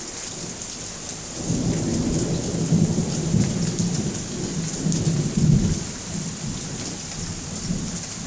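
Heavy rain falling steadily, with a low rolling rumble of thunder that builds about a second and a half in, peaks, and dies away around six seconds in.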